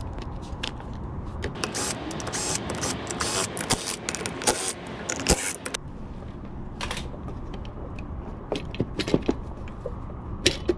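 Metal engine parts clicking, clinking and scraping as clutch components are handled and fitted back into a 125cc pit bike engine, with a busier stretch of scraping and rustling in the first half.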